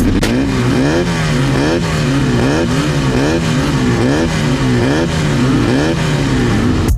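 Off-road race car engines running hard, their pitch climbing and dropping over and over with several engines overlapping, as on a dirt race track.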